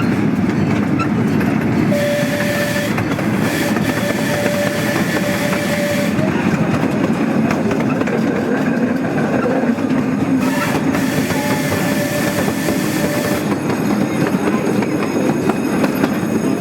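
Park passenger train running along the track, heard from aboard: a steady rolling rumble and rail clatter, with a faint held tone sounding in several stretches.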